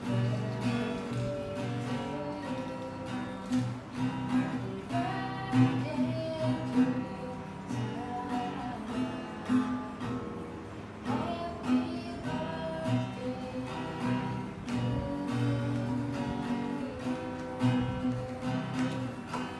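Acoustic guitar music, strummed, with a melody line over the chords.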